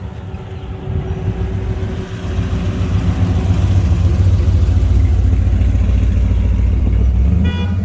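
A car's engine rumbling as the car drives past. It grows louder about two and a half seconds in, then falls off near the end.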